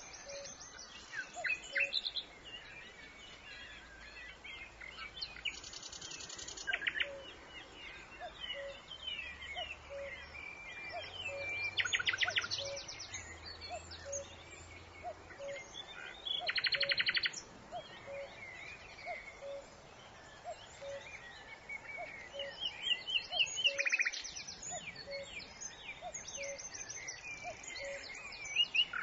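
Several wild birds chirping and singing, with a fast trill breaking out every few seconds. Underneath runs a short low call repeated evenly, a little more than once a second.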